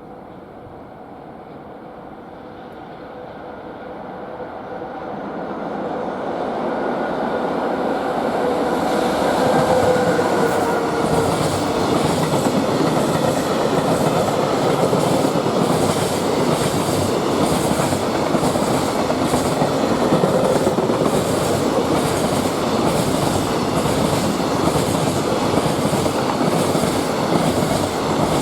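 Electric-hauled freight train approaching and passing at speed, growing louder over the first ten seconds with a brief whine as the locomotive goes by. A long line of freight wagons then rolls past with steady rhythmic clacking of wheels over rail joints.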